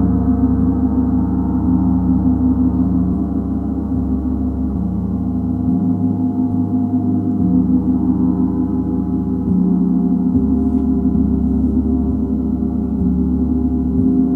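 Gong ringing in a sustained wash of many overlapping steady tones, with a low hum that swells and eases.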